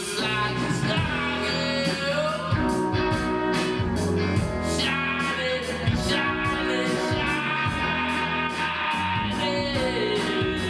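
Rock music: electric guitar over bass and a steady drum beat, with a singing voice.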